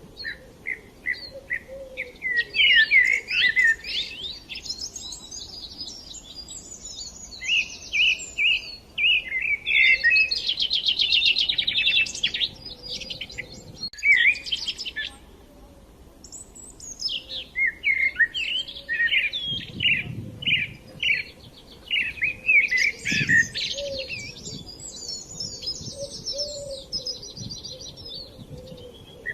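Small songbirds chirping and singing: phrases of quick, high repeated notes and trills, with a short lull about halfway through.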